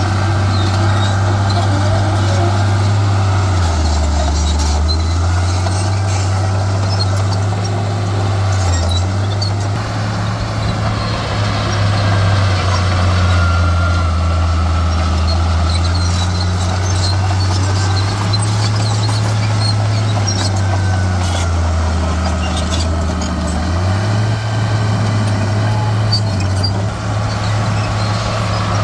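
Heavy diesel earthmoving machinery running, its engine note stepping up and down as it works. Scattered metallic clicks and a brief squeal run over it.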